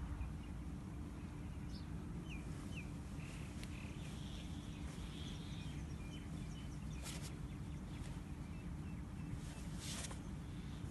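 Steady low outdoor rumble with small birds chirping a few times in the first half, and two short hissing rushes, about seven and ten seconds in.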